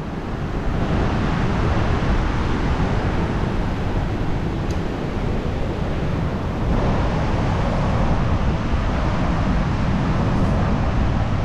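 Steady rush of sea surf breaking on the beach, mixed with wind buffeting the microphone.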